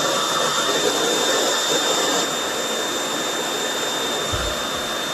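RevAir reverse-air blow dryer running: a steady, very loud suction whoosh with a constant high whine, dropping slightly in level about two seconds in.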